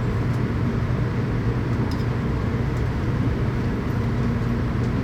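Steady low rumble and hum inside a Tokaido Shinkansen car, with a low droning tone and a few faint clicks, as the train runs slowly into Shin-Osaka.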